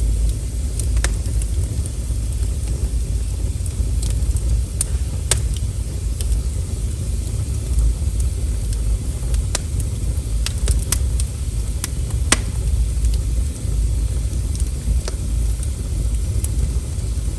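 Wood fire crackling: sharp pops and snaps every second or two over a steady low rumble.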